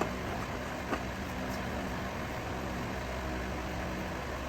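Steady low machine hum like an idling engine, with a light click near the start and another about a second in.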